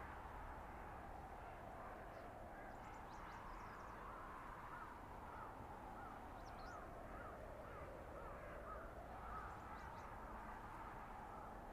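Blizzard wind in a winter forest, blowing steadily and rising and falling slowly in pitch. Through the middle, a bird calls about a dozen times in a short, even series, about two calls a second.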